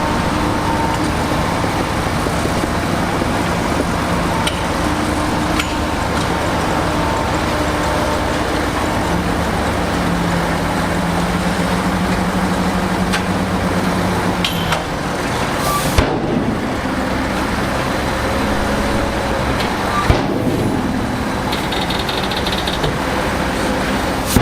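Heavy diesel earthmoving machinery running steadily, its engine note shifting partway through, with two sharp knocks about 16 and 20 seconds in.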